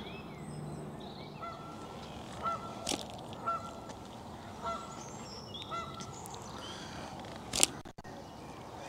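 A water bird calling repeatedly: a run of short pitched calls, about one a second, over a steady outdoor hiss. A sharp click sounds near the end.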